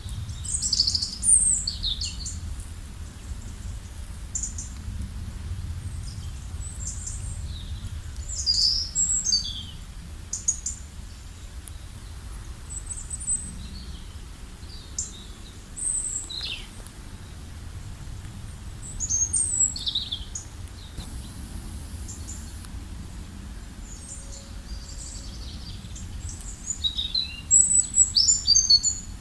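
Small birds chirping and trilling in scattered bursts of short high notes, busiest near the end, over a steady low rumble.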